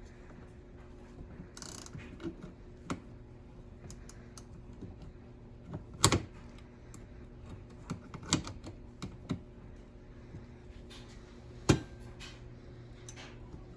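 Irregular small clicks and taps of hands working on the parts of an old police light, two of them louder, over a steady low hum.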